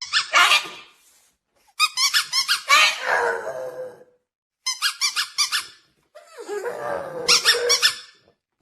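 A dog making rapid high-pitched squeaks in four runs of about one to two seconds each, with short pauses between.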